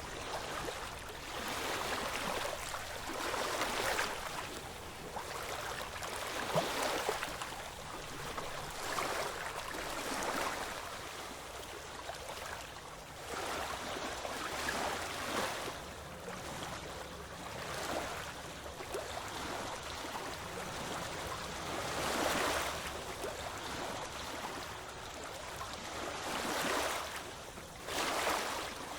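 Ocean waves washing on a shore: a continuous rush of water that swells and eases again and again, every second or few.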